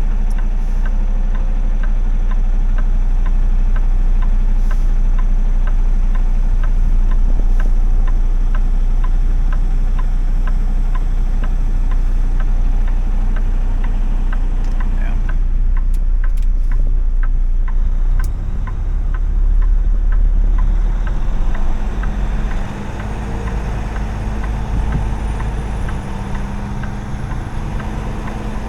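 Semi-truck engine and road noise heard from inside the cab while driving: a steady low rumble with a light, evenly spaced ticking through roughly the first half. About 22 seconds in, the level drops as the engine eases off.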